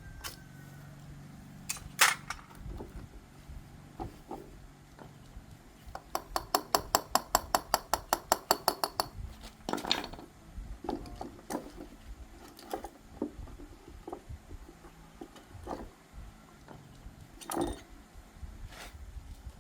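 Metal tools and engine parts clinking and knocking during hand work on a Honda Win 110 engine, with a run of about twenty quick, evenly spaced clicks midway.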